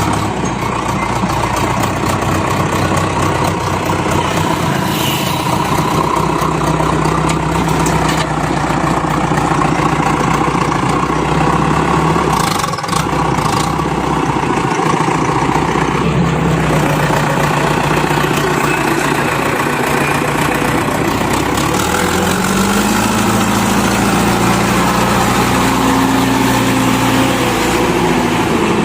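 Diesel engines of a JCB 3DX backhoe loader and a tractor running as the loader works, the engine speed rising and falling several times. A higher engine note comes in about three quarters of the way through.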